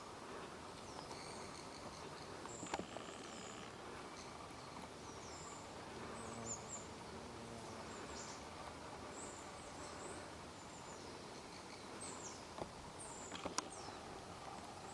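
Faint, short, high-pitched bird chirps and little falling whistles scattered over a steady background hiss of woodland ambience, with a sharp click about three seconds in and another near the end.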